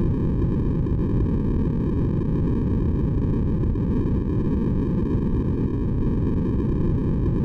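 Steady synthetic white noise for baby sleep, a deep, even rushing sound weighted toward the low end, with no change in level.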